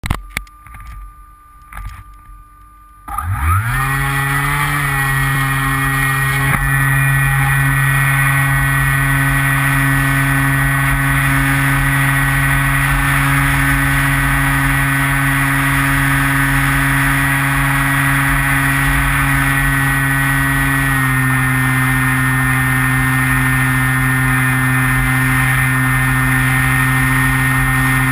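Electric motor and propeller of a Skywalker FPV model plane, heard through the onboard GoPro. A few knocks come first, then about three seconds in the motor spins up with a rising whine and settles into a steady drone. The drone steps slightly lower in pitch about twenty seconds in, as the throttle is eased.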